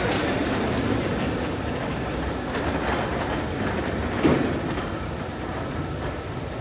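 Automated parts-warehouse conveyors and storage machinery running steadily, with a single clunk about four seconds in.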